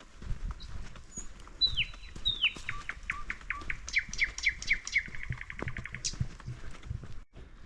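A small songbird calling: a run of quick whistled notes, each falling in pitch, that speed up into a fast trill and stop about six seconds in. Soft low thuds of footsteps on the forest floor run underneath.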